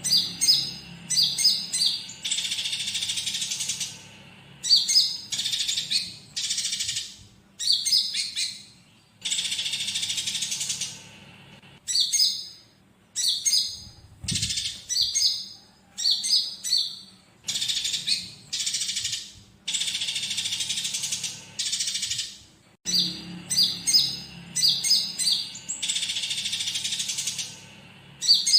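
Konin songbird singing: bursts of quick, sharp chirping notes alternating with longer scratchy, chattering phrases, over and over in rapid succession.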